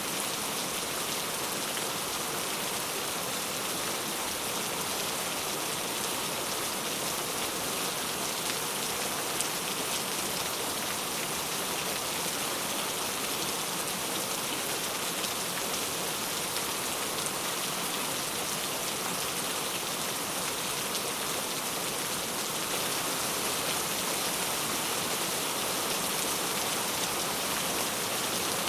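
Heavy rain falling steadily in a dense, even hiss, with the patter of drops on a surface.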